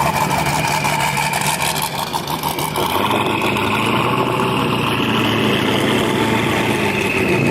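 Vehicle engines running, mostly idling, steady throughout with a change in pitch about three seconds in.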